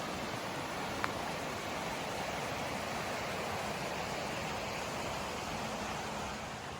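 A steady rushing noise, with one short click about a second in.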